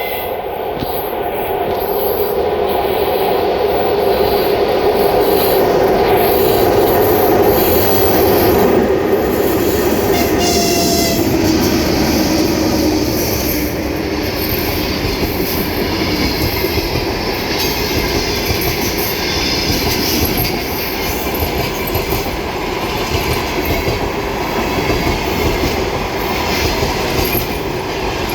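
EP1M electric locomotive and its passenger train passing through at speed without stopping: steady rolling noise with wheels clacking over rail joints and some wheel squeal. A tone falls slowly in pitch as the train goes by, loudest a few seconds in, then the carriages keep rolling past.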